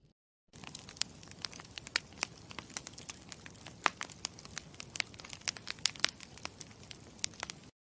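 Campfire crackling: irregular sharp pops and snaps over a soft hiss. It starts about half a second in and cuts off abruptly near the end.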